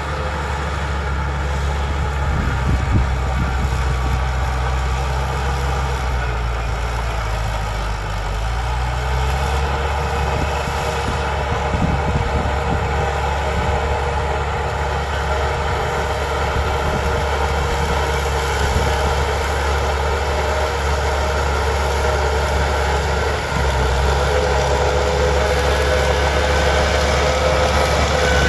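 Bulldozer's diesel engine running steadily, its pitch shifting briefly about eight seconds in and the sound growing a little louder near the end.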